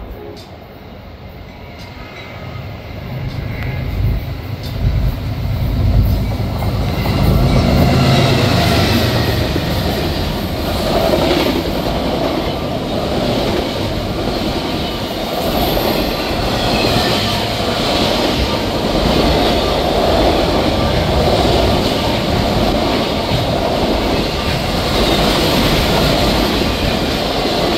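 Freight train of autorack cars passing at track speed: the sound builds over the first six seconds or so to a heavy low rumble as the head end goes by. Then a steady loud rolling noise of the cars' steel wheels on the rails.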